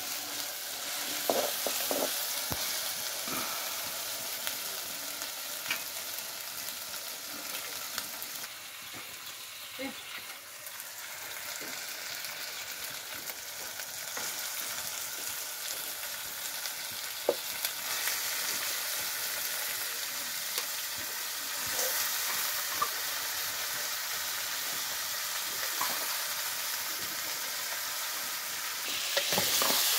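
Oil sizzling in a small black iron wok as onions and spices fry over a wood fire, with a metal spoon scraping and tapping the pan now and then. The sizzle swells near the end as raw chicken pieces go into the hot oil.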